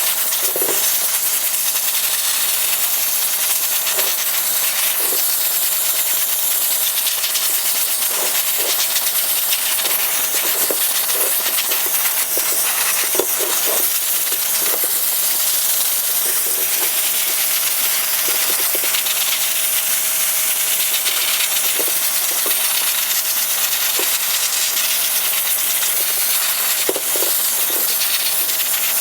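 A steady, loud hiss, like rushing air, with a faint steady tone beneath it and scattered light ticks.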